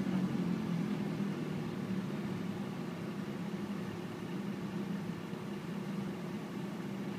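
Car engine running at a steady low hum, even in level, after a louder pass just before.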